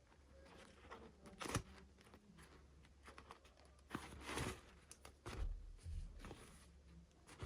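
Faint handling of packaging and small toy pieces: a sharp click, a short tearing, crinkling rustle about four seconds in, and a few soft knocks just after.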